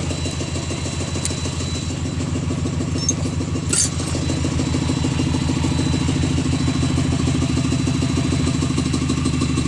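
An engine running steadily at idle, with an even low pulse. There is a short click about a second in and a sharp metallic clink nearly four seconds in.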